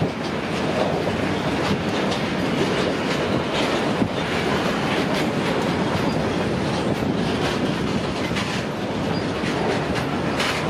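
Freight train wagons rolling on the track, their wheels clattering over rail joints in a steady clickety-clack.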